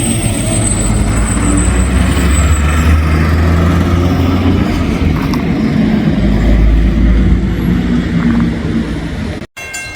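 A motor vehicle's engine and road noise, a steady low rumble that cuts off suddenly near the end.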